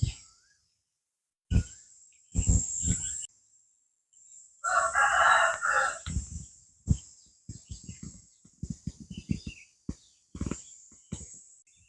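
Rooster crowing once, a call of about a second and a half about five seconds in, with scattered short knocks and clicks after it.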